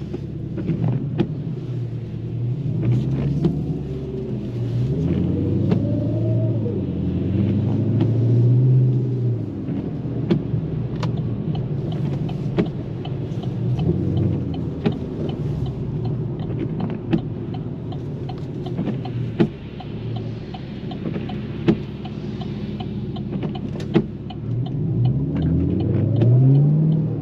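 2013 Camaro SS's 6.2-litre V8 running under way, rising in pitch twice as it accelerates gently: once a few seconds in and again near the end, with steadier running between. Sharp ticks now and then.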